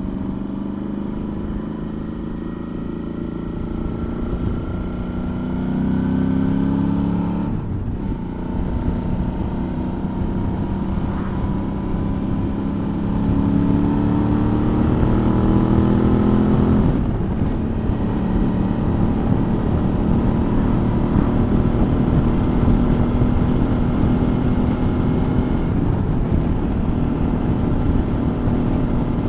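Suzuki V-Strom motorcycle engine under way with road and wind noise. It rises in pitch twice as the bike pulls through the revs, dropping back sharply about eight and seventeen seconds in, then holds steady.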